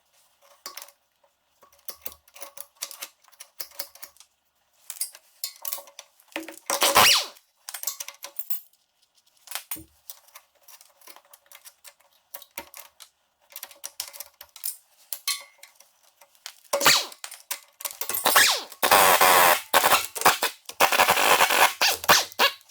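A hand tool scraping and picking packed dirt and debris off metal around a bolt: irregular scrapes and clinks, with a longer stretch of steady scraping near the end.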